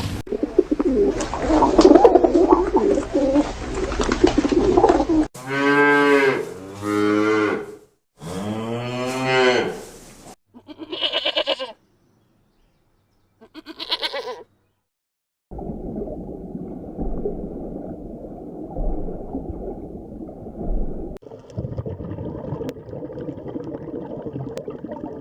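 Cattle mooing: two long, pitched moos about five seconds in, then two shorter, higher calls with short silences between them. Noisy stretches without calls come before and after.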